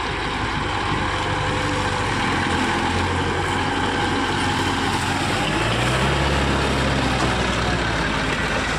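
Mahindra tractor's diesel engine running steadily, its note shifting about five seconds in.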